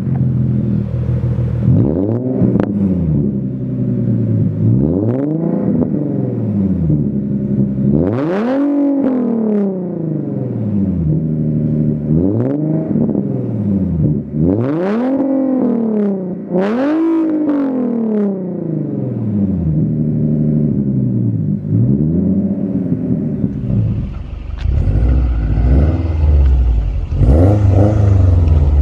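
Performance car engine with an aftermarket exhaust being revved again and again, each rev rising in pitch and dropping back. About 23 seconds in, the sound changes to a deeper, heavier rumble.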